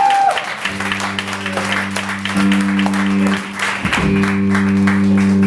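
Audience applauding while an amplified guitar holds low sustained notes that change pitch twice.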